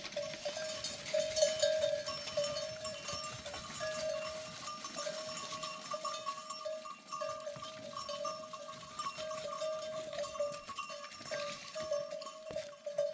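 A flock of sheep and goats with their bells clinking and jingling, over a steady held tone.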